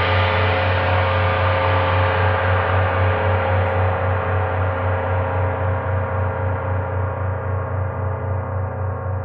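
A gong ringing on in a long, slowly fading shimmer, with a deep hum underneath that pulses a few times a second. It is not struck again.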